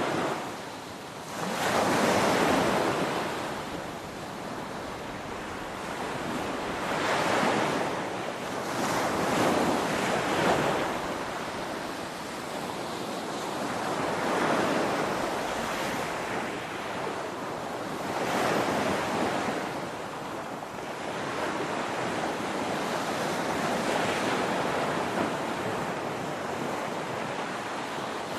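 Ocean waves breaking on a shore: a steady rush of surf that swells into a louder crash and fades back every few seconds.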